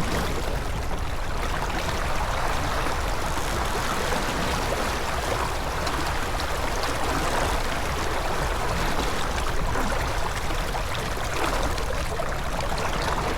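Water rushing steadily along the hull of a J24 sailboat under sail.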